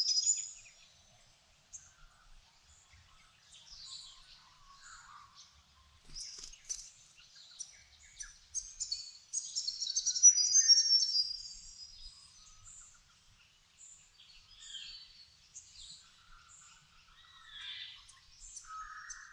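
Dawn chorus of several birds singing and chirping. A loud burst of rapid, high twittering song comes at the start and again about halfway through, with scattered shorter calls between, some lower-pitched.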